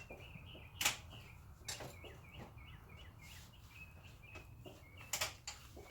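A small bird chirping over and over in quick short notes, several a second. A few sharp knocks stand out over it, the loudest about a second in and another near the end.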